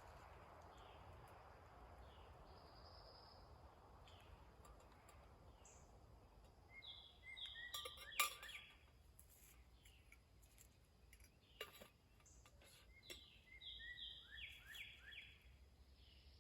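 A bird singing quietly in woodland: a run of quick, falling chirps about seven seconds in and another about thirteen seconds in. A sharp click in the middle of the first run is the loudest sound, and there is a fainter one near twelve seconds.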